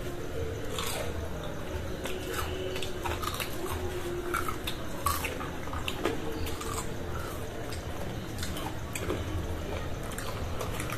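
Crisp deep-fried raw-potato and sabudana pakoras being bitten and chewed, giving scattered, irregular crunches and small clicks.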